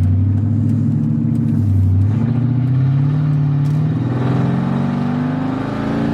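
1999 Mercedes E55 AMG's 5.4-litre V8 pulling under acceleration, its pitch dipping once about two seconds in and then climbing steadily. It runs smoothly on freshly changed spark plugs, without the misfire that had been setting the check engine light.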